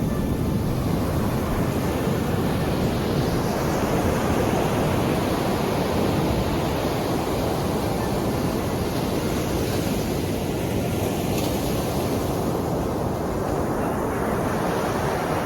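Sea surf: a continuous rush of waves breaking and washing in, steady in level throughout.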